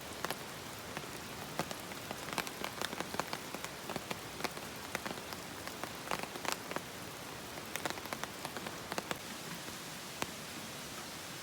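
Light rain falling: a steady hiss with many scattered sharp drop hits, thicker in the first half and sparser near the end.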